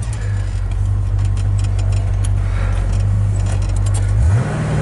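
Ford 289 V8 engine of a 1965 Mustang idling steadily, then rising in pitch about four seconds in as it picks up revs.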